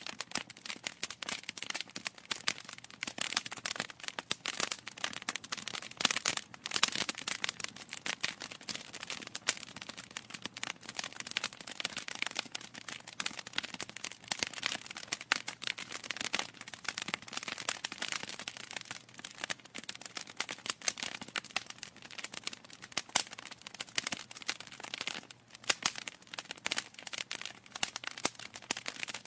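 Wood fire in a fireplace crackling, with dense, irregular pops and snaps from the burning logs.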